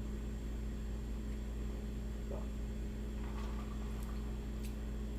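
Steady low electrical hum, with a few faint small clicks and soft swallowing sounds as a fruit drink is sipped.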